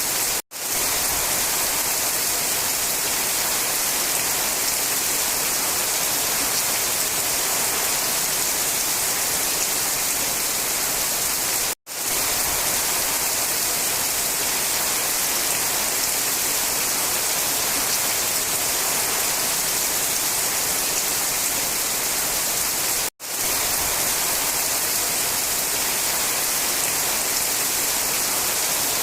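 Steady, even rain hiss, heaviest in the high frequencies. It cuts out completely for a split second three times, about eleven seconds apart.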